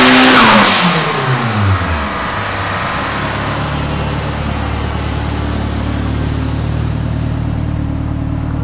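Car engine on a chassis dyno coming off a full-throttle pull: the revs fall steadily over about two seconds, then it settles into a steady idle.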